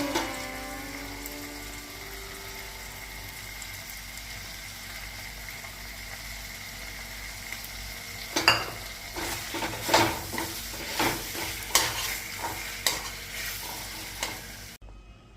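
Chicken curry sizzling steadily in a pan. From about halfway through, a spoon scrapes and knocks against the pan in quick, repeated strokes as the curry is stirred.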